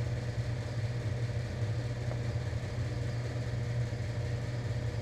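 Garage space heater running with a steady low hum, and one faint click about two seconds in.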